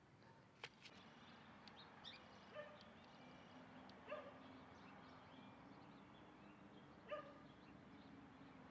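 Faint, short animal calls, three of them spaced a second or more apart, with a few sharp clicks near the start and a steady low hum underneath.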